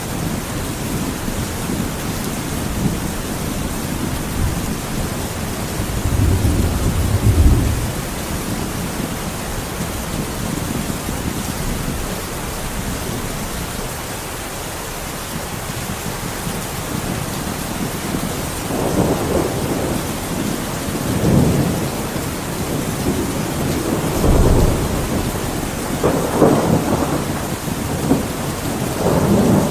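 Steady heavy rain with rolling thunder: one low rumble swells about a quarter of the way in, then several stronger peals come one after another in the last third.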